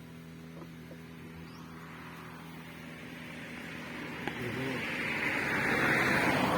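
A road vehicle approaching, its engine and tyre noise building steadily over several seconds to a peak near the end.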